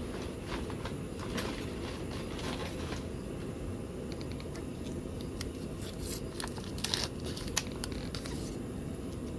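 Scattered light clicks, scrapes and crinkles of something being handled, busiest in the second half, over a steady low rumble.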